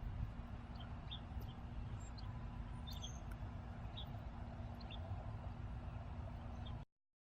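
Faint, short high chirps from small backyard birds, scattered over a steady low outdoor rumble; the sound cuts off abruptly near the end.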